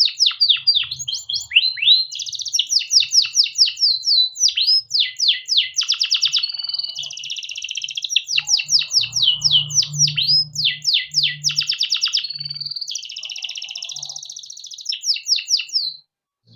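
Domestic canary singing a long unbroken song of rapid trills and repeated rolling phrases, with a few buzzier held stretches; it stops abruptly near the end.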